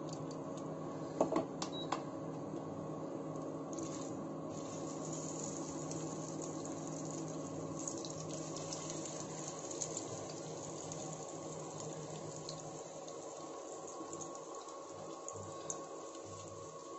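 Potato tikkis sizzling steadily as they shallow-fry in hot oil in a non-stick pan, over the steady hum of an induction cooktop. A few light knocks come about a second in as the patties are set into the pan.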